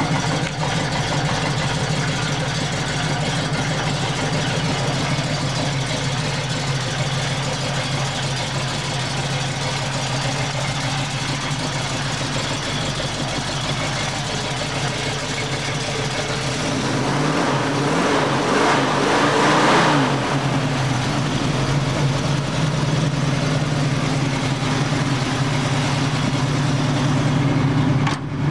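Freshly rebuilt Ford 289 small-block V8 with a Comp cam, long-tube headers and Flowmaster 40 series exhaust, idling steadily. A little past halfway it is revved once, the pitch rising and falling back to idle.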